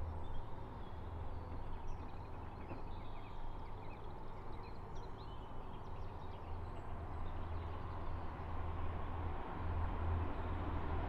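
Distant passenger train, which the speaker takes for a Class 172 diesel unit, running along the line below the viaduct: a steady low rumble that grows louder toward the end. Small birds chirp now and then in the first half.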